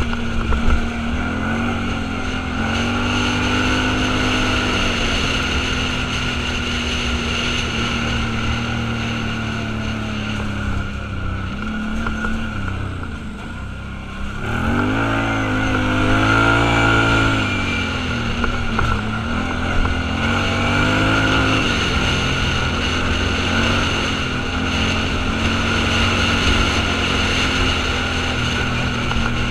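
Off-road vehicle engine running while driving, its pitch rising and falling with the revs. It eases off briefly around 13 seconds in, then picks up again.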